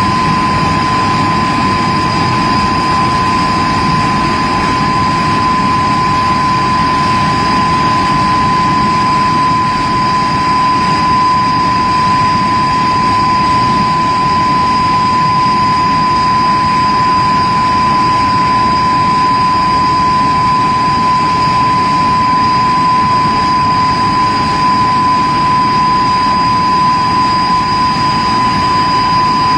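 de Havilland Vampire jet fighter's turbojet engine running steadily on a ground run: a loud, constant rumble with a steady high whine held at one pitch.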